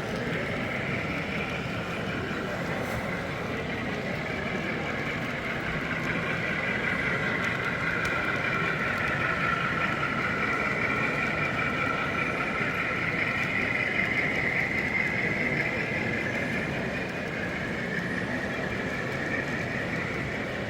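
Model train running on a show layout, its motor and wheels giving a steady whir with a drifting whine. It grows louder for several seconds mid-way, as if passing close, then eases off.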